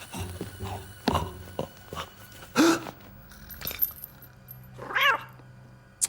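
Cartoon cat sound effects: a short meow about two and a half seconds in and a longer wavering yowl near the end, among scattered small clicks and knocks.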